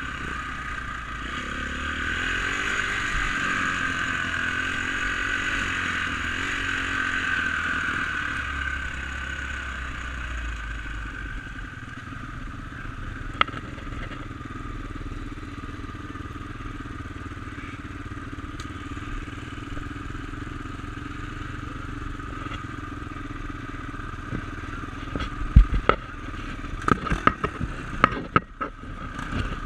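Dirt bike engine running steadily while being ridden, a little louder over the first several seconds. Near the end come a series of sharp knocks and clatter.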